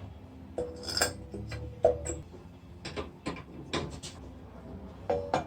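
Irregular metallic clinks and knocks from the mini-bike's steel wheel and sprocket parts being handled to check the sprocket's alignment, several with a brief metallic ring.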